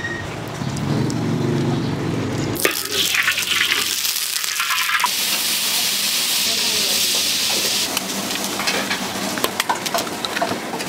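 Low street rumble for the first couple of seconds, then loud sizzling of food frying in a hot wok. A metal spatula stirs, scrapes and clicks against the pan, with the sizzle loudest in the middle.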